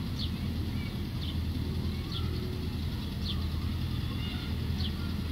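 Short, high, falling bird chirps about once a second over a steady low rumble of outdoor background noise.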